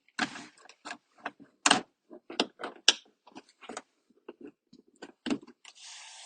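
Plastic trim clicking and creaking in a run of irregular sharp snaps as a plastic pry tool works the map light console loose from the headliner of a 9th-generation Honda Civic, the retaining clips letting go. A short scraping hiss comes near the end.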